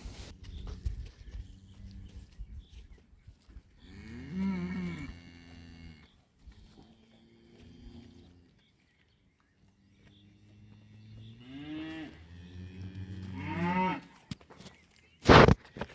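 Cattle mooing: a long moo about four seconds in, a fainter one after it, and another long moo that rises and falls from about eleven seconds in. A sudden loud thump near the end.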